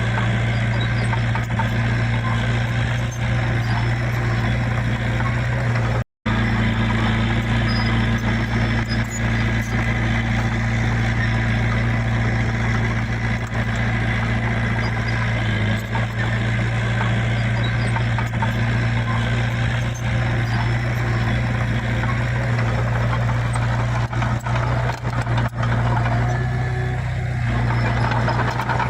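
Heavy earthmoving machine's diesel engine running steadily at a constant speed, with a brief dropout about six seconds in.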